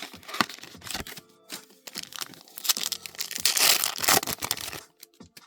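Trading-card booster pack wrapper being torn open and crinkled by hand, loudest over the middle second or so, then stopping shortly before the end.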